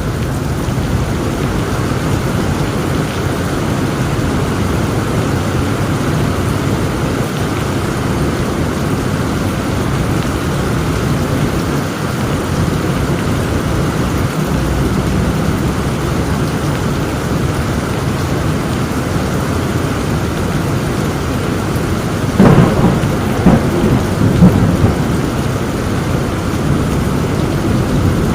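Heavy rain falling steadily, with a sudden crack of thunder about three-quarters of the way through, rumbling on for a few seconds.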